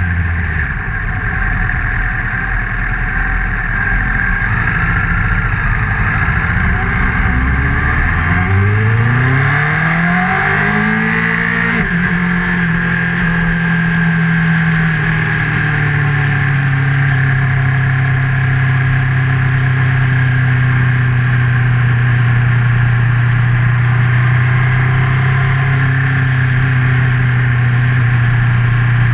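Honda CBR1000RR's inline-four engine recorded by a GoPro mounted on the bike, running low at first, then revving up over about four seconds from about eight seconds in, and holding a steady pitch from then on.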